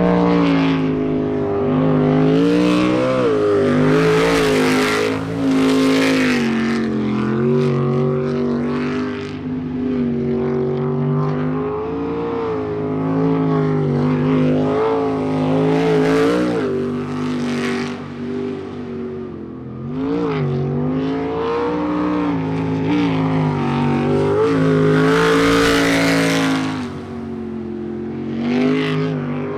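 A jet sprint boat's high-powered engine running hard through a timed run, its pitch rising and falling as the driver works the throttle through the turns, with several louder surges along the way.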